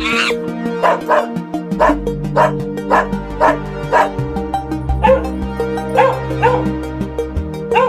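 A dog barking in short, high yips, about two a second, over background music.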